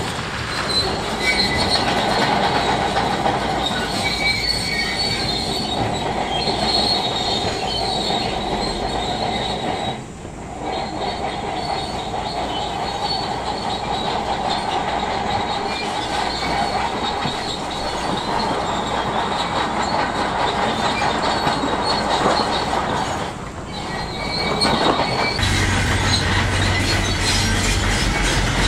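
Crawler bulldozer working rock: steel tracks squealing and grinding over the engine's running noise. Two brief dips break the sound. Near the end it changes to a deeper, steadier engine hum.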